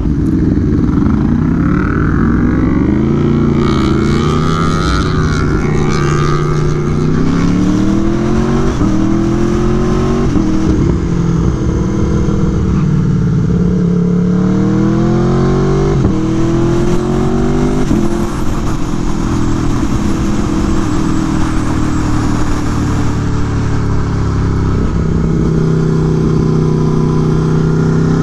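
Aprilia Tuono V4 1100 Factory's V4 engine through an SC Project exhaust, accelerating in a series of rising pulls, each cut off by a sudden drop in pitch at a quick upshift. It holds a steadier pitch in the last part.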